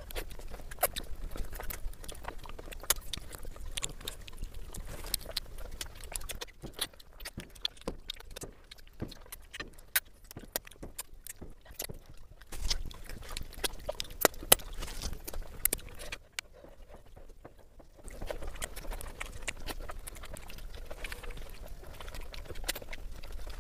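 Close-miked eating: wet chewing, lip-smacking and sharp little mouth clicks as a curried chicken leg piece with rice is bitten and chewed, with a short lull about two-thirds of the way in.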